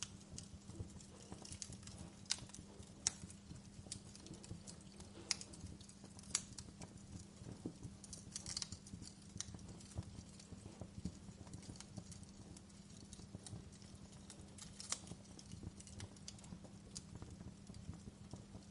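Wood fire crackling in a fireplace: faint, irregular sharp pops and snaps, a few louder ones in the first third, over a low steady hum.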